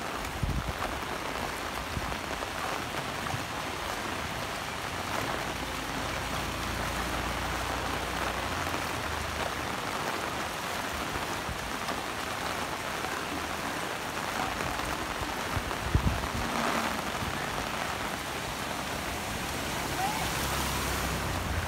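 Heavy rain falling steadily on a flooded street, with a couple of brief knocks. Near the end, a motor scooter's engine runs low as it splashes through the floodwater.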